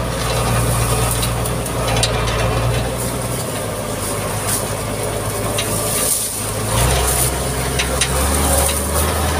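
Mitsubishi MG330 motor grader's diesel engine running at work. The low engine note shifts about three and a half seconds in and again near seven seconds, with scattered short clicks over it.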